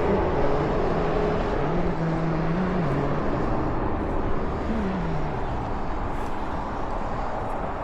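A motor vehicle's engine running, its pitch stepping up and down and sliding down once about five seconds in, over a steady rush of noise.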